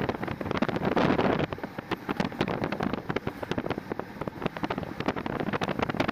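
Moving passenger train heard from on board: a steady running noise full of rapid irregular clicks and rattles, with wind buffeting the microphone.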